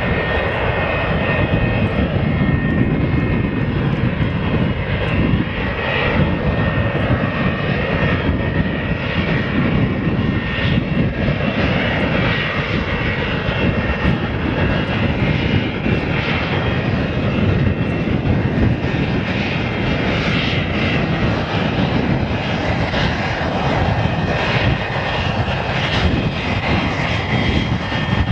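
Jet engines of a three-engined airliner running loud and steady: a dense rumble with a thin high whine on top.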